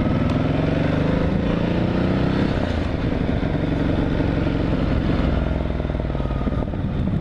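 Motorcycle engine pulling away under acceleration, its pitch rising for about two and a half seconds. Then it drops as the rider shifts up, and the engine runs on steadily.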